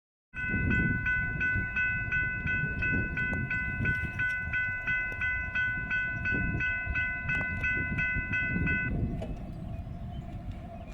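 Loaded coal train rolling by with a steady rumble of wheels on the rails, under a bell ringing in quick repeated strokes, about two to three a second, which stops about nine seconds in.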